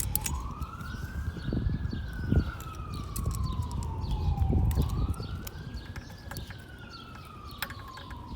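A siren wailing in the background, its pitch slowly rising and falling about once every four and a half seconds, over scattered light clicks and taps of hand tools.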